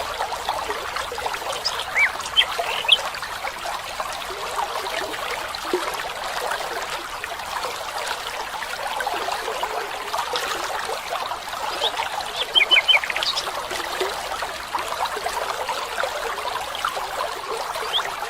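A stream trickling steadily, with a few short bird chirps about two seconds in and again around twelve to thirteen seconds in.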